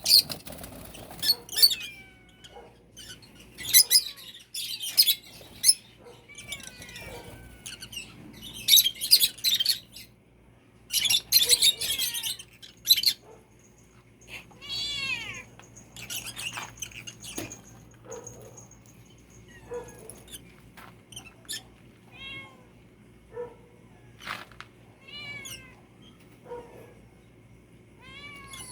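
A kitten meowing repeatedly among high-pitched bird chirps. The loudest bursts of calls come in the first half.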